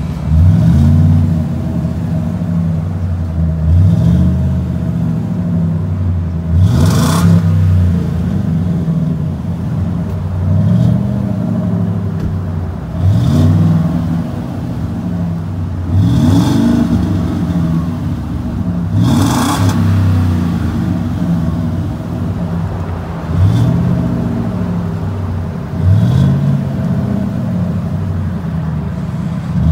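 Car engine idling and blipped about ten times, roughly every three seconds, each rev rising and falling in pitch, heard through a true dual exhaust with FlowPro cross-flow mufflers.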